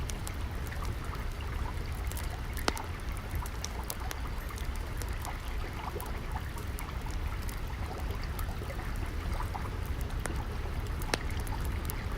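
Water trickling steadily, layered with the scattered sharp crackles and pops of a wood fire, one louder pop about two and a half seconds in.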